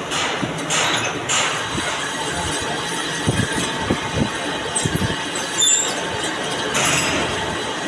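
Metal lathe running in a workshop: a steady mechanical noise with irregular knocks and clatter, and a brief high squeak about the middle.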